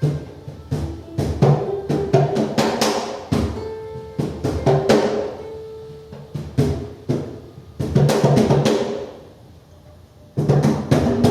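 Congas struck by hand in irregular clusters, with a few held pitched notes from another instrument underneath; the drumming drops off briefly about ten seconds in, then starts again.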